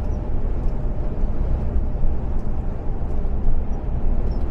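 Steady low rumble of an Iveco Stralis 510 truck cruising at highway speed on adaptive cruise control, engine and road noise heard inside the cab.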